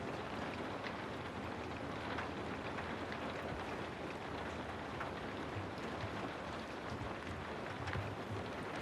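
Steady rain white noise: an even hiss of falling rain with scattered sharper drop ticks.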